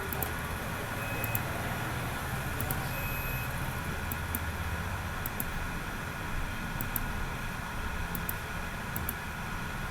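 Steady background noise: a low rumble and even hiss, with a faint steady tone and pairs of faint high ticks about once a second.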